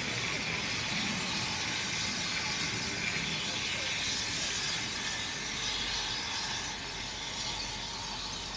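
Steam-hauled passenger train running away along the track, its noise a steady hiss and rumble that fades slowly as it recedes.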